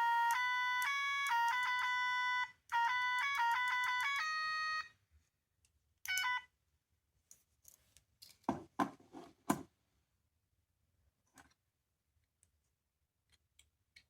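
Small electronic sound toy from a capsule-toy machine playing a short beeping melody through its tiny speaker. The melody breaks off briefly and starts again, then stops about five seconds in. A short beep follows about a second later, then a quick cluster of clicks and knocks.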